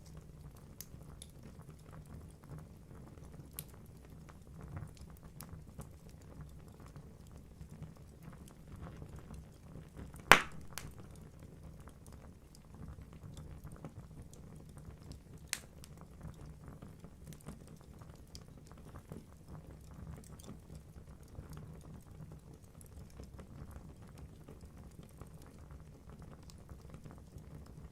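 Wood fire burning in a fireplace: a low steady rumble of flames with constant small crackles, one loud sharp pop about ten seconds in and a smaller pop a few seconds later.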